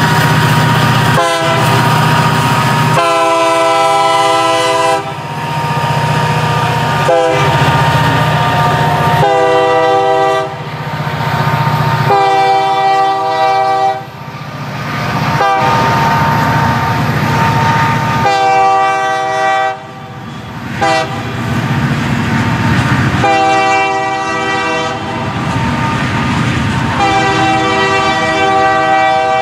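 Union Pacific SD40N and GP60 freight locomotives passing close by, their EMD diesel engines rumbling, while the lead unit's horn sounds over and over in long and short blasts for a road crossing. Once the engines are past, the freight cars roll by with wheels clicking over the rail joints.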